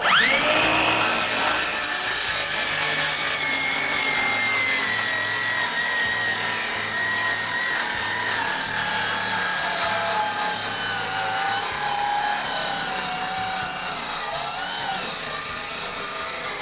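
Power saw cutting through wood, a steady motor whine that sinks slowly in pitch over the cut, starting and stopping abruptly.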